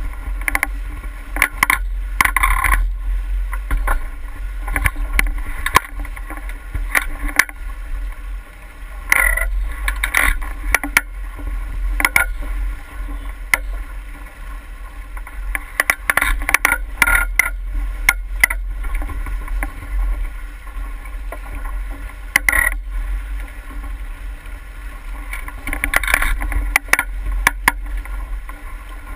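Water sloshing and slapping against a small boat's hull, with irregular knocks and clatters and a steady low rumble.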